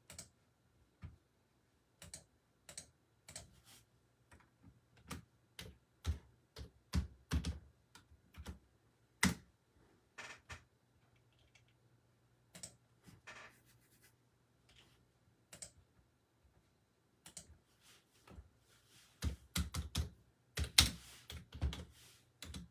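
Typing on a computer keyboard: scattered single keystrokes and short runs, with a quicker flurry of keys near the end.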